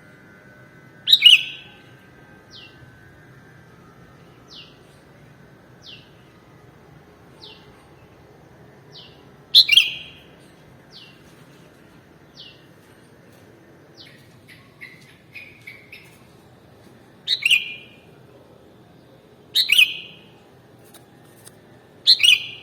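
Sooty-headed bulbul (kutilang) calling: five loud, bright chirping phrases, the first about a second in, the rest spread through with three close together near the end. Soft short falling notes sound between them, about one every second and a half, and a quick run of varied notes comes midway.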